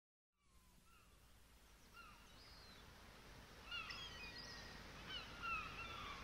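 Birds chirping in short calls that rise and fall in pitch, coming more often toward the end, over a low steady rush of noise. The sound fades in from silence just after the start.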